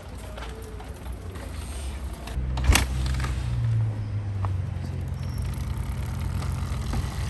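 Kawasaki KX450F dirt bike's single-cylinder four-stroke engine running at a steady idle. It gets louder about two and a half seconds in, with one sharp knock just after.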